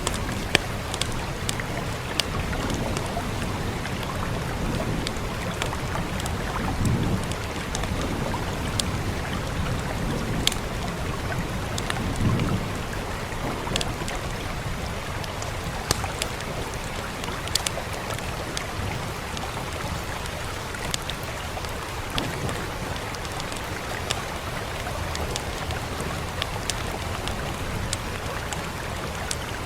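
Fire crackling with scattered sharp pops, over a steady hiss of rain. A couple of low rumbles swell up about seven and twelve seconds in.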